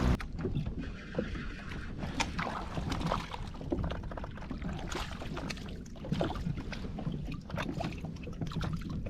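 Kayak on the water: irregular small knocks and clicks over a steady low rumble.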